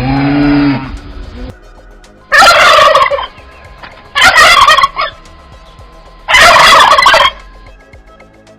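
A turkey gobbling three times, each loud rattling gobble lasting about a second, with pauses of about a second between them. A low drawn-out call tails off in the first second.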